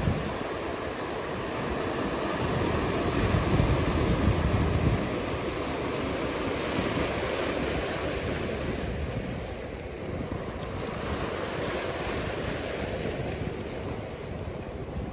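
Ocean surf washing steadily, mixed with wind rumbling on the microphone. A louder surge of low rumble comes about three to five seconds in, and the sound eases somewhat after about ten seconds.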